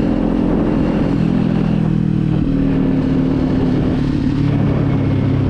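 Kawasaki Z400's 399 cc parallel-twin engine running under way, heard from the rider's camera with a rush of wind noise. The engine note drops in pitch about a second in, then holds steady.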